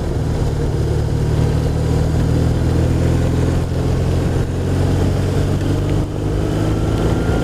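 BMW R1200RT motorcycle's boxer twin engine running at a steady speed, with a faint tone rising slightly in pitch near the end.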